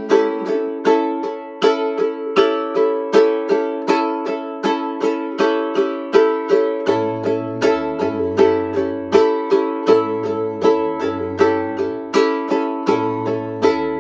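Ukulele strumming chords in a steady rhythm, about two strums a second. About halfway in, a low bass line joins and drops in and out.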